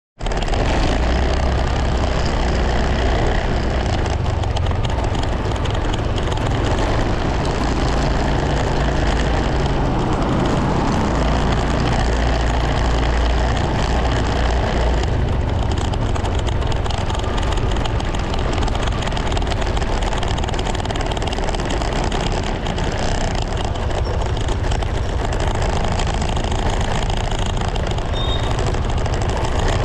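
Steady running noise of a vehicle on the move: a low engine rumble with road and wind noise over it, the engine note shifting slightly at times.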